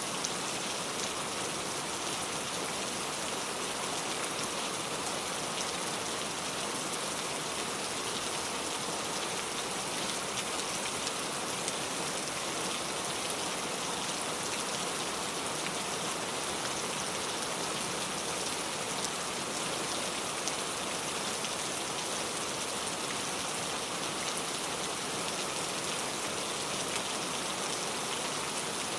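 Steady rain falling, an even hiss that holds level throughout, with no thunder.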